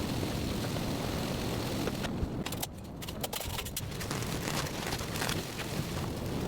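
Heavy rain falling steadily: a dense even hiss with scattered sharp drop taps, thinning briefly in the highs about two seconds in.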